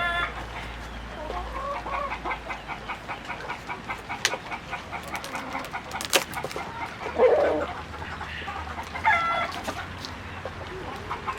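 Chickens clucking: a steady run of quick, repeated clucks with a few louder calls over it, and a sharp click about six seconds in.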